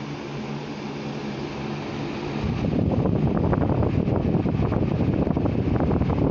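22-inch Anderson ceiling fan running on high speed with a steady hum; about two and a half seconds in, its airflow starts buffeting the microphone with loud, rough wind noise.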